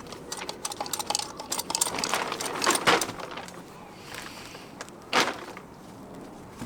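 Small metal objects rattling and clinking as they are handled: a dense run of clicks over the first three seconds, then quieter, with one sharper knock about five seconds in.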